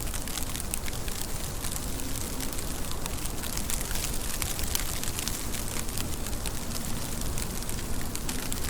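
Steady rain falling, a dense even hiss of countless drop hits with many small sharp ticks.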